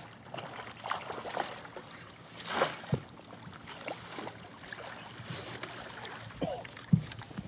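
Handling noise in a small fishing boat: water sloshing, with a few short knocks and thumps, the sharpest about three seconds in and near the end.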